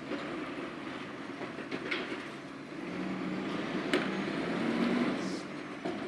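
Autocar garbage truck's diesel engine running, swelling and rising slightly in pitch in the middle as it revs, with metallic clanks near two seconds and a sharper bang about four seconds in, then a short hiss.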